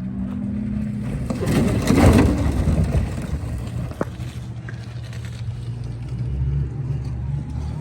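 Small electric car driven hard off-road under full throttle: a steady low motor hum under tyre and chassis noise, with a loud rush of noise about two seconds in and a sharp knock a couple of seconds later.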